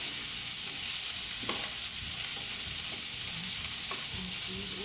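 Beef and broccoli sizzling in a pan, a steady high hiss, with a couple of short clicks of a utensil against the pan.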